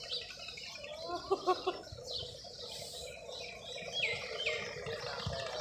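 Small birds chirping: short, quick falling calls, a pair of them about four seconds in, over a faint steady background hum.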